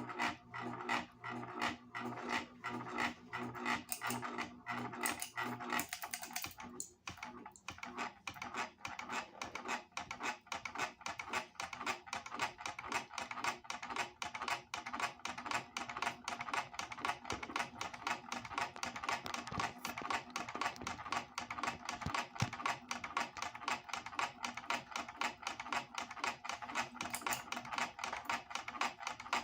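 Hampton Bay Littleton ceiling fan running with one of its blades broken off, giving a fast, regular clicking throughout. A low steady hum under the clicks drops away about six seconds in.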